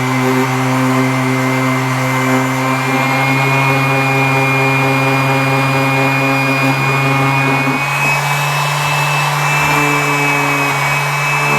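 A power tool's motor running steadily, likely a grinder or sander working the cleaver during its restoration. Its tone shifts about eight seconds in, as the work presses on it.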